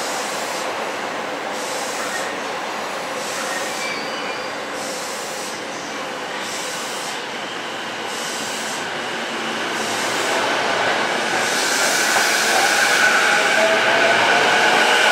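Electric train running through a station: steady rolling rail noise that grows louder over the last few seconds, as high whining tones come in, slowly rising in pitch.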